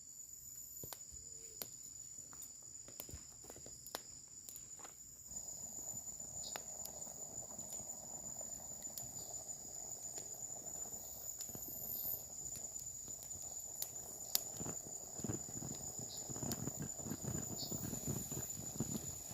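Steady high-pitched insect drone, with scattered light clicks; from about five seconds in a soft hiss joins, and in the last few seconds irregular pattering grows busier.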